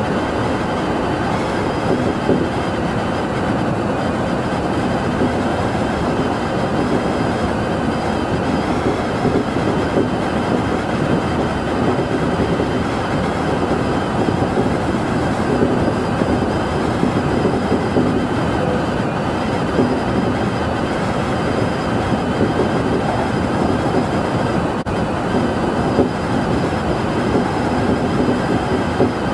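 Tobu Utsunomiya Line local electric train running steadily at speed, heard from inside behind the front window: a continuous rumble of wheels on rail with a few faint steady high whines above it.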